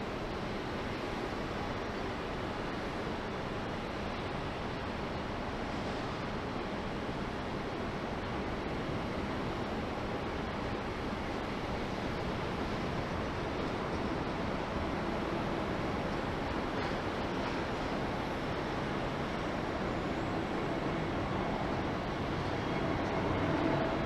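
Steady rushing noise of jet aircraft engines, growing a little louder near the end.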